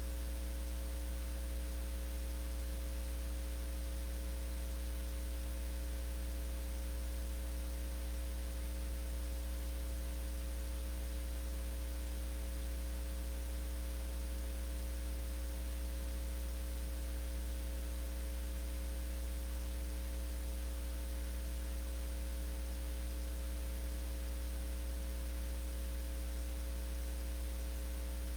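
Steady electrical mains hum with a low buzz of overtones and a faint hiss, unchanging throughout, with no other sound.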